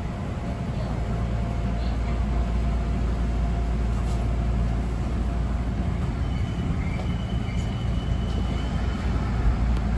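Train running noise: a steady low rumble, with a faint thin high tone in the second half.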